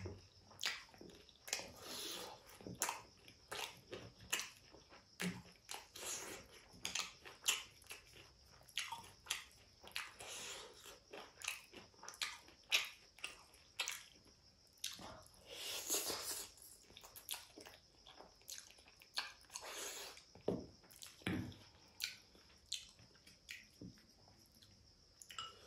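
Close-miked mouth sounds of a person eating fried chicken and spicy ramen noodles: irregular wet chewing smacks and clicks, with a few longer, noisier mouth sounds such as one about sixteen seconds in.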